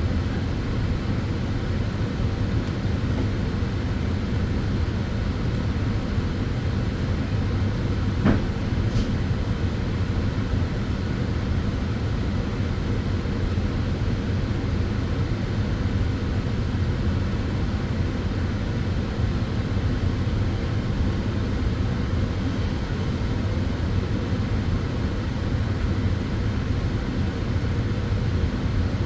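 Sunbed running: a steady low drone of its fans with a faint hum. There is a single brief click about eight seconds in.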